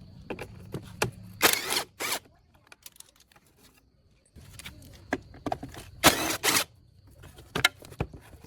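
Hand work on parts: a run of sharp clicks and knocks, with two short clusters of scraping or rustling noise about a second and a half in and again about six seconds in.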